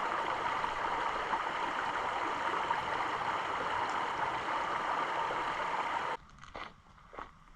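Steady rush of flowing stream water, which cuts off abruptly about six seconds in. After that it is much quieter, with a few footsteps.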